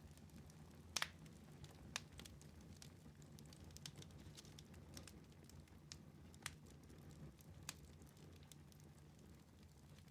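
Wood fire in a fireplace crackling quietly: scattered sharp pops, with a louder double pop about a second in, over a low steady hum.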